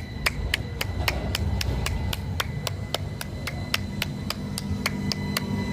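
Rapid, regular ticking, about four a second, over a low rumble and a faint steady high tone.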